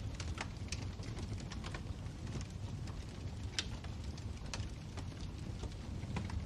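Wood fire burning in a fireplace: irregular sharp crackles and pops over a steady low rumble of the flames, with one louder pop about three and a half seconds in.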